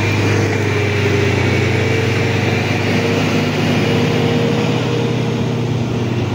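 Heavy construction machine's diesel engine running steadily at an even speed, with a constant low hum and a faint steady whine above it.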